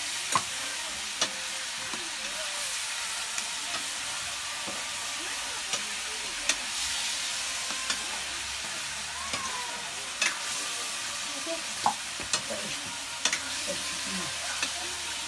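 Food sizzling as it fries in a metal wok, stirred with a metal ladle, with a steady hiss and scattered sharp clinks every second or two.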